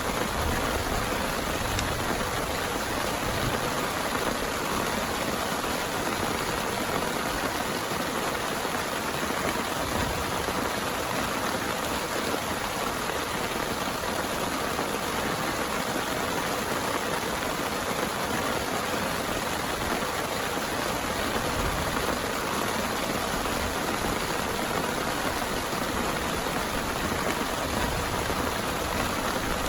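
Heavy rain falling steadily, an even hiss and patter with no change in strength.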